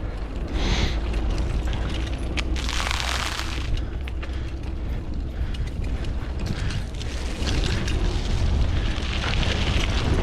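Bicycle ride: steady wind rumble on the microphone, with scattered clicks and rattles from the bike's moving parts.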